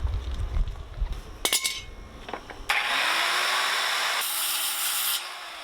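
A few knocks from wood being handled, then a tool working wood: about two and a half seconds of steady rasping noise that changes partway and cuts off suddenly.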